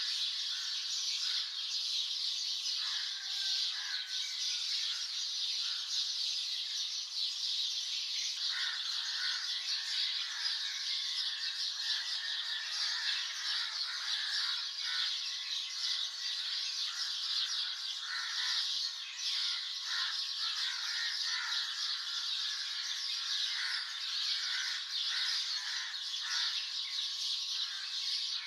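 Morning chorus of many birds chirping and calling at once: a dense, unbroken high chirping, with lower calls coming and going over it.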